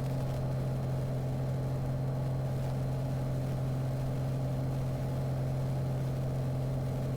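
Small airplane's engine and propeller droning steadily inside the cabin during a climb after takeoff, one unchanging low hum with fainter overtones above it.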